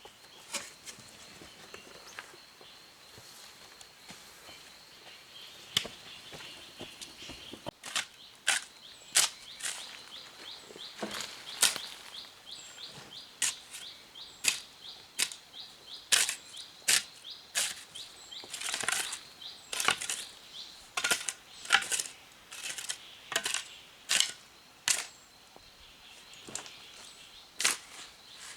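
A series of sharp knocks, a few at first and then about one or two a second from several seconds in, over a steady high-pitched buzz.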